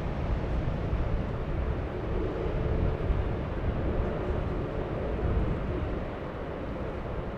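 Jet airliner engines running during a landing or takeoff: a steady, deep rumble with a faint hum in the middle range.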